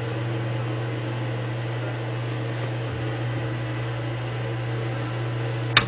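Steady low hum of a running appliance or electrical hum in a small room, with a single sharp click near the end.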